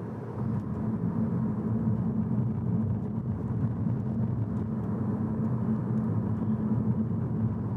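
Steady low rumble of a car in motion, its road and engine noise growing slightly louder about half a second in.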